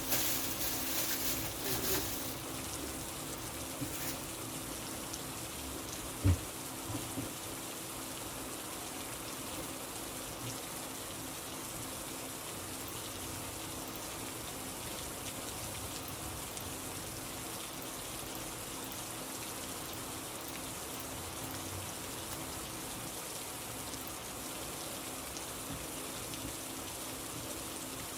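Steady rain falling, with a faint low hum under it. One sharp low thump about six seconds in, and a few brief noises in the first two seconds.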